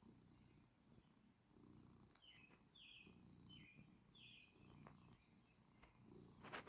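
Faint bird chirps: four short falling notes in quick succession, followed by a thin, high, steady note, over a quiet low rumble.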